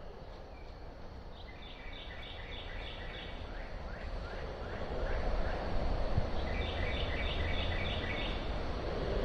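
Outdoor ambience with a songbird singing two quick phrases of about six chirps each, a few seconds apart. A low rumbling background noise grows louder from about halfway through.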